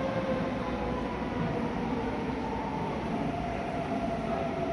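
Electric train approaching through the tunnel into an underground station platform: a steady rumble with a faint sustained whine, echoing in the enclosed station.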